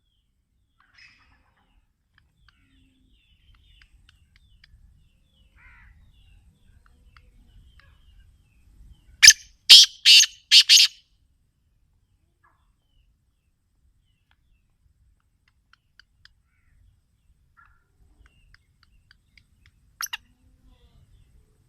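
Black francolin (kala teetar) calling: a quick run of about five loud, harsh notes about nine seconds in, and a short sharp double note near the end. Faint chirps are scattered around them.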